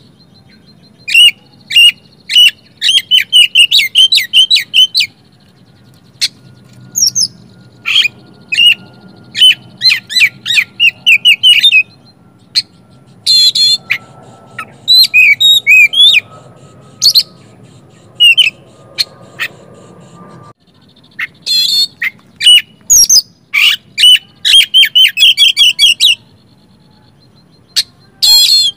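Oriental magpie-robin singing: loud, rapid phrases of chirps, trills and whistles broken by short pauses, its song full of mimicked calls.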